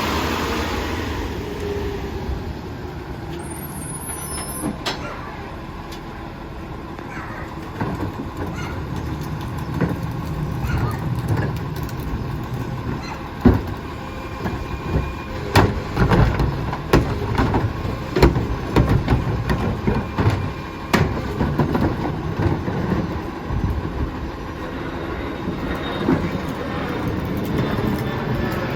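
Heil rear-loader garbage truck running with a steady low rumble. From about eight seconds in it is joined by irregular metal clanks and bangs, busiest in the middle.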